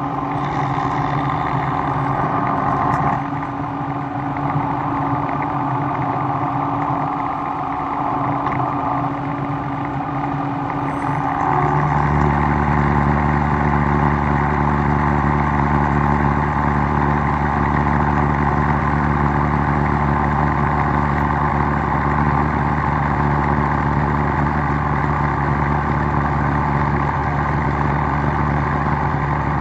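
Shop machinery running steadily with a motor hum. About twelve seconds in, a deeper, louder hum joins in and holds steady, as a second machine or a heavier load comes on.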